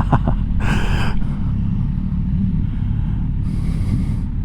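Motorcycle engine running steadily under way, picked up by the rider's camera, with two brief bursts of hiss about half a second in and again near the end.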